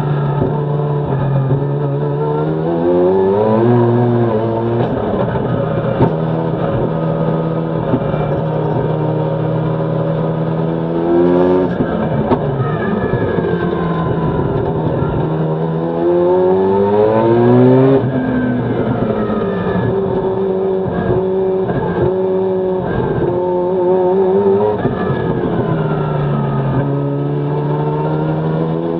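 Mazda Gen-1 RX-7 rally car's engine driven hard, its pitch climbing over a couple of seconds and dropping back again and again as it revs through the gears, with a few short spells at steady revs.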